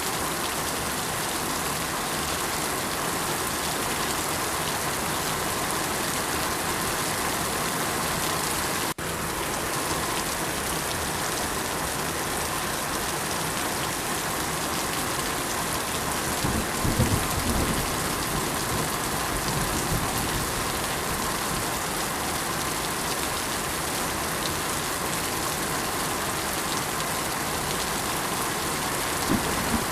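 Steady heavy rain falling on surfaces, an even hiss of many drops. Low rumbling swells in about halfway through and again near the end.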